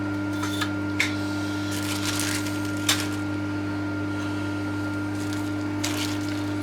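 Steady workshop hum with a few small sharp clicks and short rustles from handling small parts and their bag.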